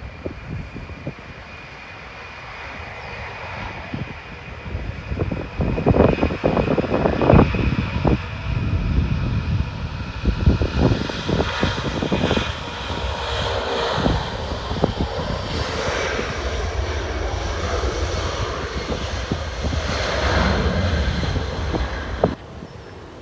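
Jet airliner engines growing loud about six seconds in and holding a steady, crackling roar with a high whine, over wind buffeting the microphone. The sound cuts off abruptly near the end.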